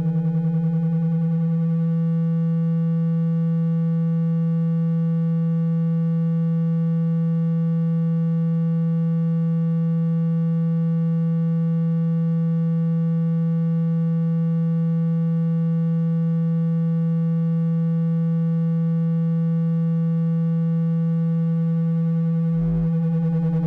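Steady low electronic tone with overtones, a water-eject vibration sound played through a phone speaker to shake water out of it. It holds one pitch throughout, with a brief glitch near the end.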